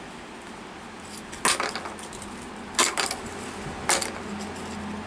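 Three sharp clicks, like small hard objects knocking or clattering, spaced a little over a second apart over a steady background hiss.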